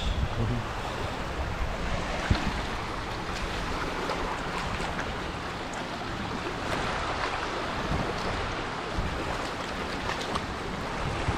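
Sea surf washing onto a beach, a steady rushing noise, with some wind on the microphone.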